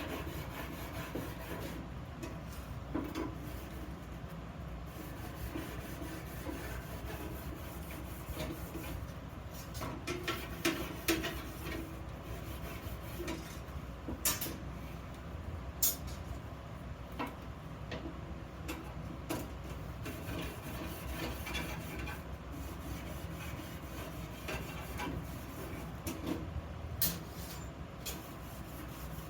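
Hand work on iron pieces at a workbench: scattered light clicks and knocks of metal being handled and rubbed, a few sharper ones in the middle and near the end, over a steady low hum.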